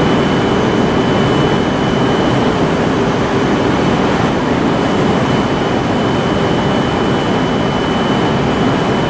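Steady rushing rumble of train traffic at a busy rail station, with a thin, steady high whine over it.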